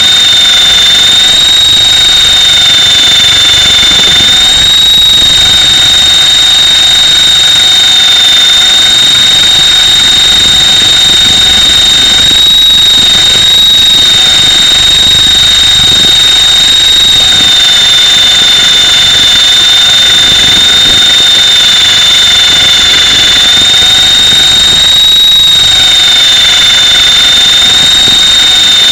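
Mini Titan E325 electric RC helicopter's motor and drivetrain whining at a steady high pitch, very loud and close as picked up by its onboard camera, the pitch sagging slightly now and then.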